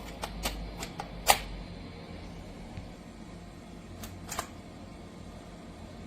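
A handful of sharp clicks: a quick series of about five in the first second and a half, then two more about four seconds in, over a steady low hum.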